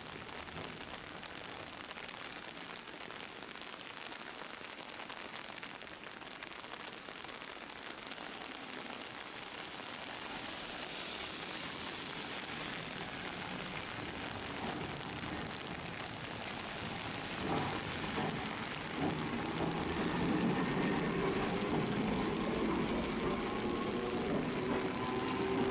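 Steady rain falling. From about two-thirds of the way through, a vehicle approaches: a rumble with a steady hum that grows louder.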